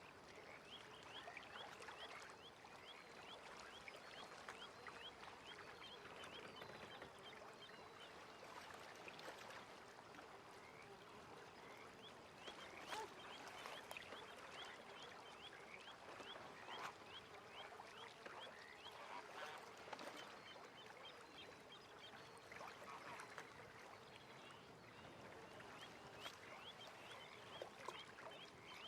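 Faint lakeside ambience: a steady chorus of many small, quick, repeated animal calls, with scattered light clicks and splashes.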